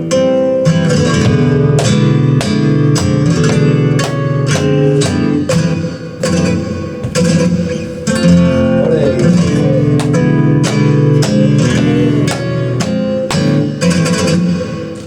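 Flamenco guitar playing a farruca, with sharp strummed chord strokes and changing chords; the playing softens near the end.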